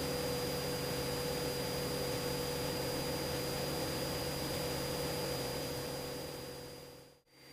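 Steady hiss and low hum of a light aircraft's intercom audio feed, with the muffled cabin and engine drone held low beneath it. It fades out near the end and starts to fade back in.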